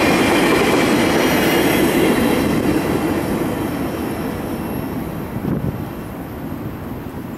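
Freight train boxcars rolling past on the rails, the wheel noise fading steadily as the last car moves away.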